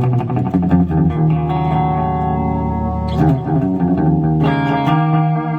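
Electric guitar played through a multi-effect pedal: a chord strummed and held, a brief broken-up passage a little past three seconds, then another chord ringing out near the end.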